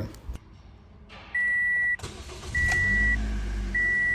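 Toyota Corolla's warning chime beeping about once every second, while the engine is cranked and catches about two seconds in. This is a restart after the battery was disconnected to reset a too-high idle, and the engine comes up running normally.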